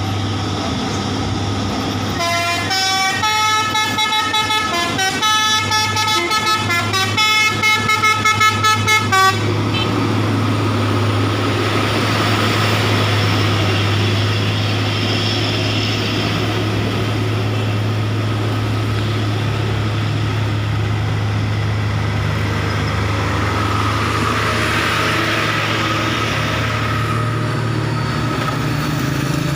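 A heavy truck engine running steadily. For about seven seconds a multi-note horn sounds a rapid series of short pitched toots that step between several notes. After that the engine goes on alone, rising a little in pitch near the end.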